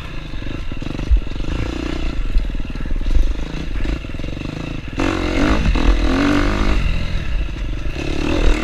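KTM dirt bike engine running as it is ridden along a trail, the engine pulling harder and louder about five seconds in.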